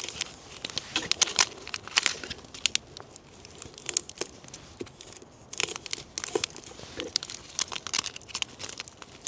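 Small spice sachets being torn open and handled: a run of irregular crinkling and tearing noises.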